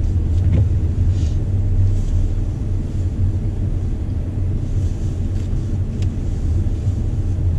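Two-door Jeep Wrangler Sport with a manual gearbox driving along, its engine and road noise making a steady low rumble.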